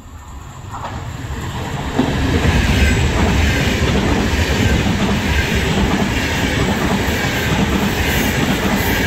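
Vivalto double-deck regional train passing through the station without stopping. It grows louder as it approaches, and from about two seconds in there is a steady rush and rumble of wheels on rails, with clickety-clack over the rail joints.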